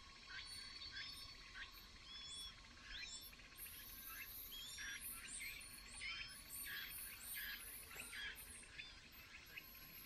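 Faint, short, high bird chirps repeated about twice a second, mixed with brief thin whistled notes. A thin high hiss is heard through the middle seconds.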